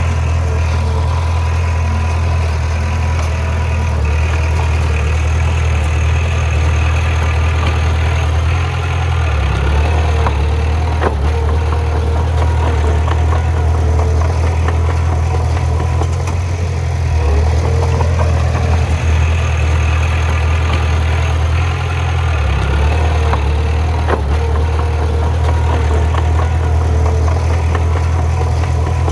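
Heavy earthmoving machinery's diesel engine running steadily with a deep hum, its note dipping briefly a few times, with an occasional faint knock.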